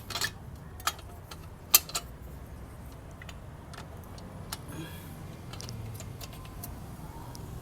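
Small metal clicks and clinks of screws and a steel chain guard being handled and fitted by hand, several sharp ones in the first two seconds and sparser after, over a faint low hum.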